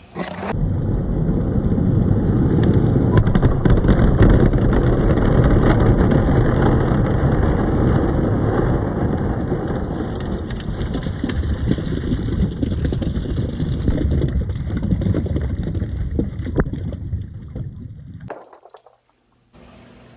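Balls rolling along a wooden marble-run track: a continuous low rumble with many small clicks and knocks. It fades and cuts out briefly near the end, then starts again.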